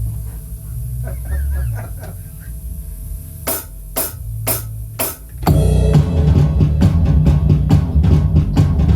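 Opening of a rock band's original song: a few low bass notes, then four sharp count-in clicks about half a second apart, and about five seconds in the full band comes in loud, drum kit driving with rapid strokes over bass and other instruments.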